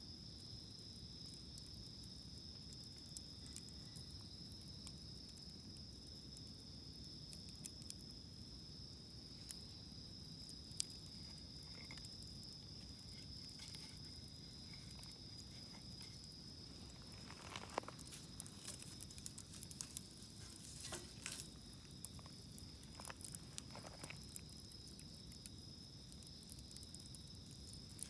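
Wood campfire burning faintly, with scattered sharp crackles and pops that come thickest in the second half, over a steady high chirring of insects.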